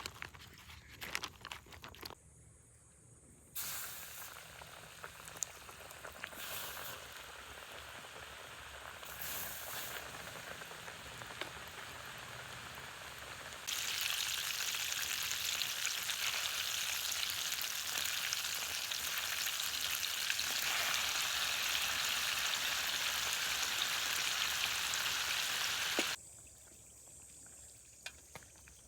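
Food frying in a pan: a few clicks at first, then a steady sizzle starting about three seconds in. The sizzle gets louder about halfway and cuts off abruptly a few seconds before the end.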